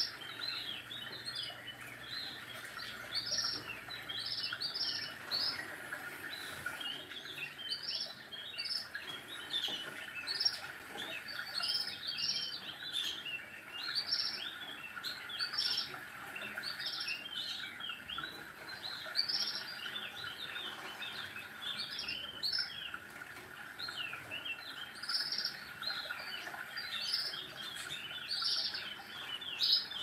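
Small birds chirping in quick, irregular series over a steady high hum.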